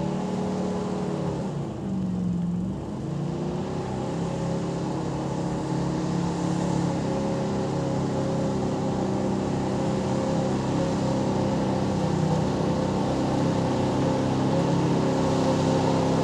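Pulling truck's engine running hard at high revs under load as it drags the weight sled. The pitch dips and climbs back about two seconds in, then holds steady.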